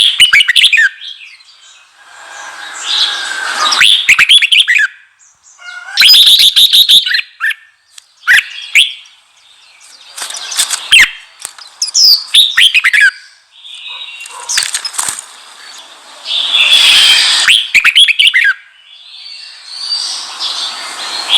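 Red-whiskered bulbul singing: a run of short, loud, warbling phrases with brief pauses between them, several harsher and noisier than the rest.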